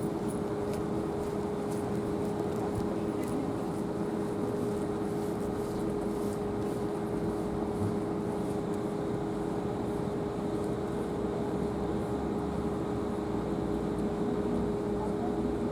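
Electric passenger train giving a steady mechanical hum with a constant mid-pitched whine over a low rumble.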